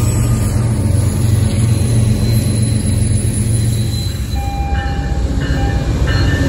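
Norfolk Southern diesel freight locomotives and cars passing with a steady low engine rumble and rolling noise. About four seconds in, the sound changes to an Amtrak diesel passenger train arriving, with a series of short, steady high tones.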